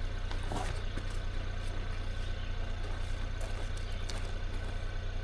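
Truck engine idling with a steady low hum, while an electric air pump runs off the truck's power inverter, inflating an air mattress. A few light clicks or knocks sound now and then.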